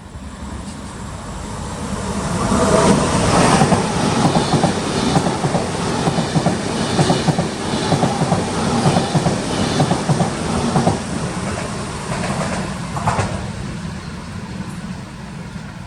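Trenitalia ETR700 (ex-Fyra V250) electric high-speed train passing through a station without stopping. The sound builds over the first few seconds as the train arrives, carries a rapid clickety-clack of wheels over rail joints and points as the carriages go by, then fades as it runs away.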